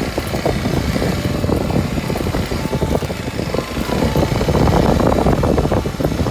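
Kawasaki Super Sherpa's 250 cc single-cylinder four-stroke engine running under way as the trail bike is ridden, getting a little louder about five seconds in.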